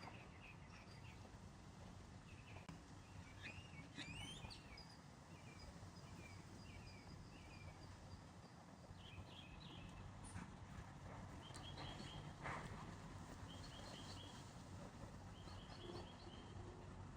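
Faint outdoor birdsong: several birds calling in short repeated chirps and trills, with a rising call about four seconds in.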